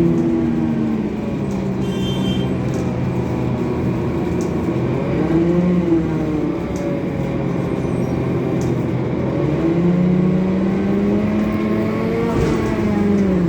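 Scania coach's diesel engine running under way. Its pitch drops about a second in, holds low, climbs again around ten seconds, and dips briefly near the end.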